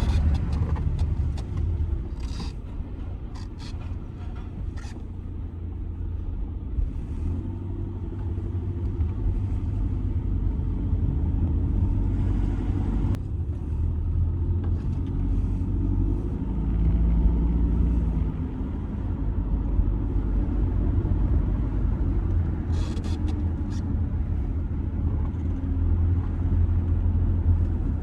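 Audi A6 C6 2.0 TDI four-cylinder turbodiesel car driving, a steady low rumble of engine and road noise. A few light clicks come near the start and again near the end.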